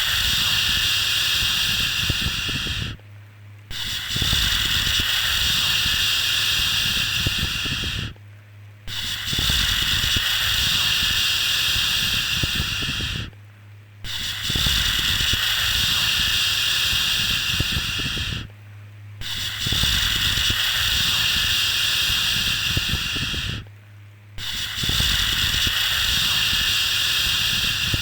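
A long 'shhh' shushing sound of the kind used to soothe a baby to sleep. Each hiss lasts about four and a half seconds, then breaks off briefly and starts again, about every five seconds. A low steady hum runs beneath it.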